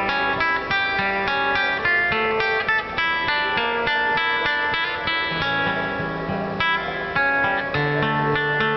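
Acoustic guitar playing an instrumental break between sung verses: a steady run of plucked notes and chords over a bass line, with no voice.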